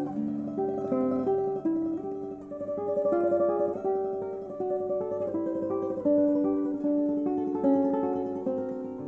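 Martinez MC 58 classical guitar, with a solid spruce or cedar top and rosewood back and sides, played solo. It is a tremolo passage: a melody of rapidly repeated high notes over plucked bass notes.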